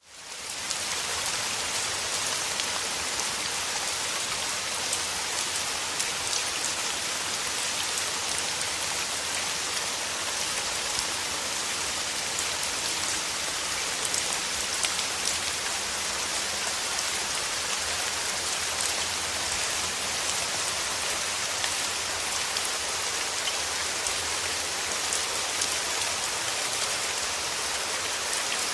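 Steady rain falling: an even, dense hiss with many small drop ticks. It fades in from silence over the first second.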